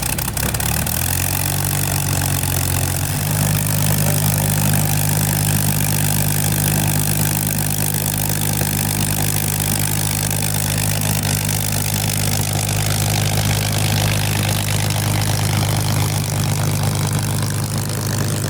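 Supermarine Spitfire's Rolls-Royce Merlin V12 engine coming to life and running steadily, stepping up to a higher, even speed about three seconds in.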